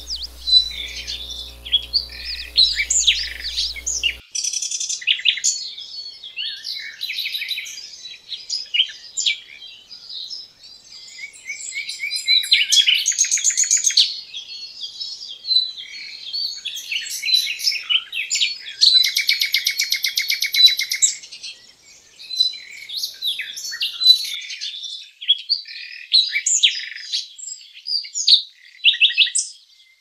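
Several songbirds chirping and calling over one another, with runs of fast repeated trilling notes about a third of the way in and again past the middle.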